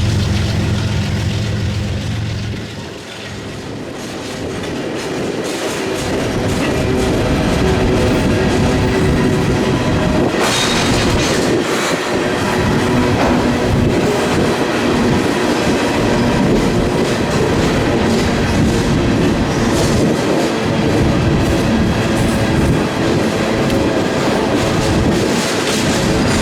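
Freight train rolling past, its cars' wheels clattering over the rail joints in a continuous clickety-clack. A low, steady engine drone at the start stops about three seconds in, and the rolling noise of the cars builds after that.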